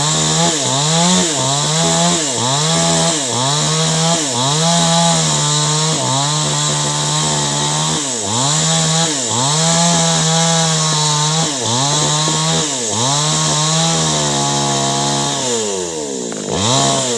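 Two-stroke chainsaw cutting clove-tree wood, its engine speed dipping and recovering about once a second as the chain bites. Near the end the engine drops off, revs up once briefly and falls back toward idle.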